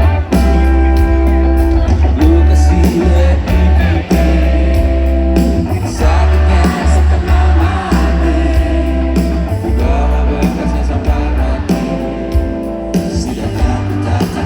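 Live rock band playing loudly at a concert, with guitar, heavy booming bass and singing, recorded on a phone in the audience.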